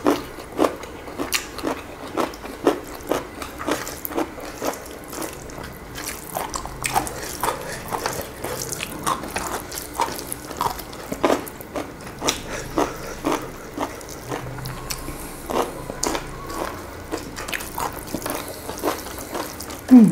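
Close-up chewing and wet lip-smacking of food being eaten, in a quick even run of about two to three moist clicks a second. A short, loud, low-pitched sound comes at the very end.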